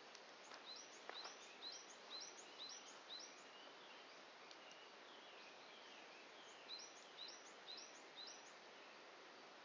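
A songbird sings rapid runs of high, repeated notes, one in the first few seconds and another about seven seconds in, over a faint steady outdoor hiss. A wood campfire gives one sharp crack about a second in.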